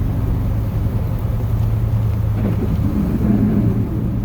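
Chevrolet plow truck's 8.1-litre Vortec big-block V8 running steadily under way, a constant low hum, with some wavering in the sound about halfway through.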